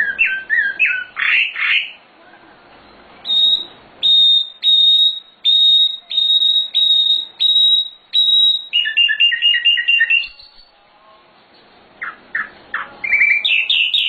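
Sikatan londo (a flycatcher-type songbird) singing loudly: a few varied chirped phrases, then a run of about eight clear, even, high notes repeated in a row, a fast rattling trill, and after a short pause a quick series of rising notes.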